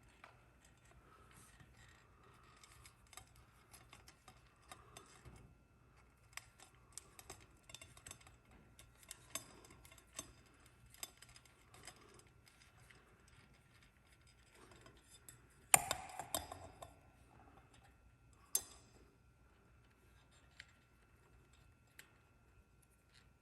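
Small clicks and rustles of hands working electrical wires and plastic twist-on wire connectors at a ceiling fan's wiring, with a louder clatter about two-thirds of the way through and a sharp click soon after.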